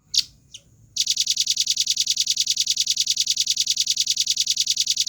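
Velvet-fronted nuthatch singing: two short, sharp falling notes, then from about a second in a fast, even, high-pitched trill of about a dozen notes a second that keeps going.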